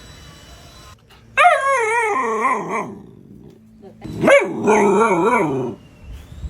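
Dog making two drawn-out, wavering howl-like calls, each about a second and a half long, with the pitch sliding up and down. It is vocalizing out of hunger, demanding food.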